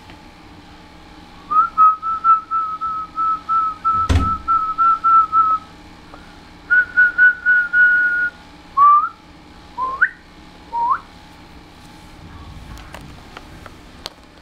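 Whistling: a quick run of short, high notes at one pitch, about three a second, then a second run a little higher, then three short rising whistles. A single thump about four seconds in.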